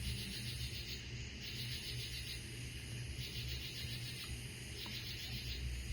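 Night chorus of singing insects, taken for cicadas: a high pulsing buzz that swells in repeated phrases about every second and a half, over a faint low hum.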